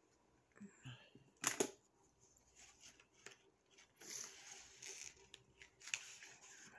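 Faint rustling and handling of gift packaging, with a sharp click about one and a half seconds in.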